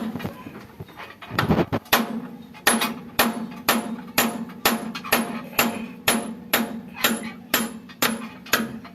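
Hammer blows on metal, a few irregular strikes and then a steady run of about two a second, each with a short ring, as a part is knocked out of a Massey Ferguson 5245 DI tractor during repair. A low steady hum runs beneath.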